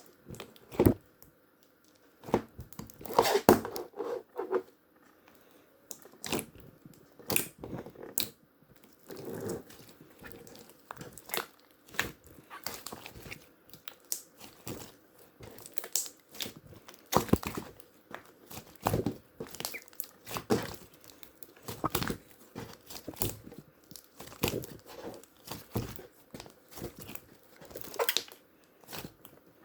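Paper being handled at close range: irregular crinkling, rustling and small taps and tears.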